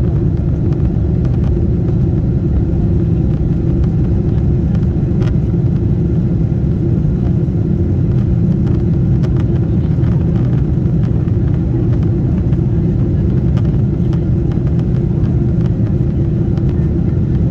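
Steady low rumble of a Boeing 747-8 heard from inside the passenger cabin, the even roar of its engines and airflow.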